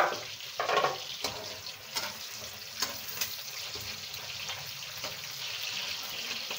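Shredded chicken and vegetables sizzling in oil in a metal pan, with a steady hiss throughout. A wooden spoon scrapes and knocks against the pan several times in the first three seconds or so.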